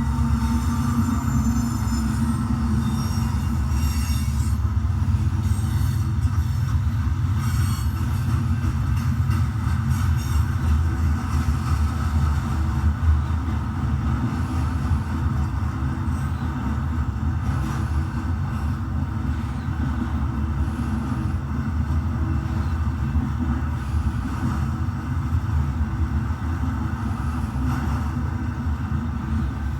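Steady diesel locomotive running sound for an HO scale GP35 model: a continuous low engine rumble with a fainter higher hum over it.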